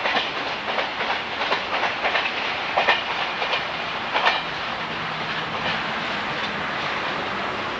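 A train running along the track, its wheels clacking over rail joints several times in the first half, then settling into a steadier rolling rumble.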